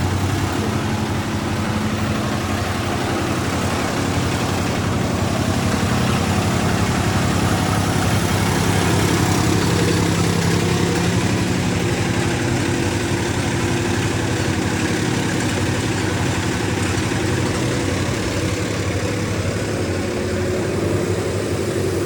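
Diesel tractor engines running steadily, a constant low engine note over a broad background noise, shifting slightly in pitch near the end.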